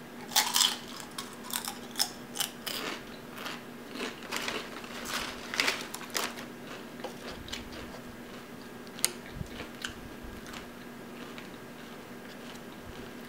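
Tortilla chip being bitten and chewed: a quick run of crisp crunches over the first half, thinning to occasional soft chewing, with one sharp click about nine seconds in.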